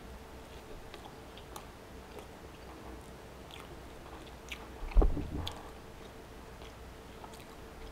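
A person chewing a mouthful of flaky pastry close to the microphone, with small wet mouth clicks and lip smacks throughout. One louder sound stands out about five seconds in.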